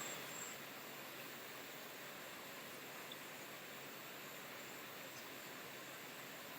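Faint steady background hiss: room tone, with no distinct events.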